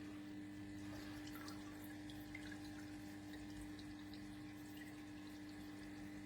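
Aquarium water dripping and trickling, with small scattered drips over a steady low electric hum.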